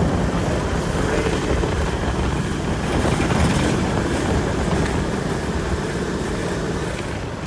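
Steady, low rumble of a motorcycle ride through traffic, with the bike's engine and surrounding vehicles blending into an even road noise.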